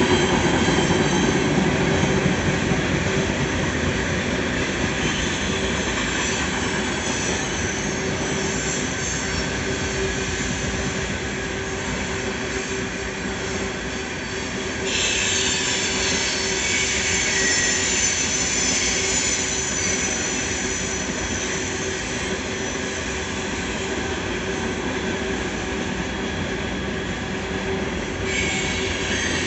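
Loaded coal train's hopper cars rolling past, with continuous wheel-on-rail noise. A high-pitched wheel squeal comes in sharply about halfway through and holds steady.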